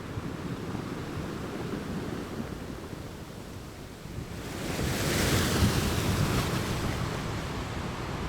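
Ocean waves washing against rocks: a low rumbling surf, then a wave breaks about halfway through with a loud hissing crash that slowly dies away.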